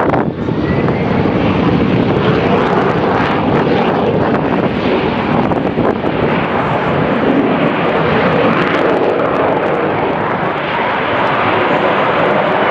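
Propeller aircraft engines running in a loud, steady drone as the plane flies over.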